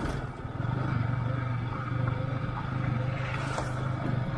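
Yamaha R15 V3 motorcycle's single-cylinder engine running at a steady pace while being ridden, a steady low drone under a haze of wind and road noise.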